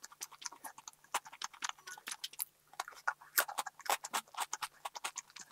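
Close-miked chewing of a soft sandwich with the mouth closed: rapid, irregular sticky mouth clicks and smacks, with a brief lull about halfway through.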